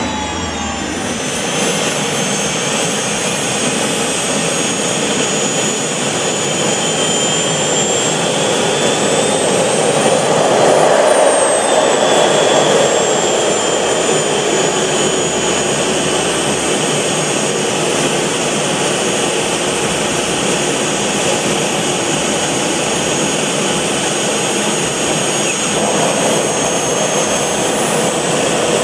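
Gas-turbine superbike engine running with a high whistling whine, spooling up about ten seconds in and winding back down.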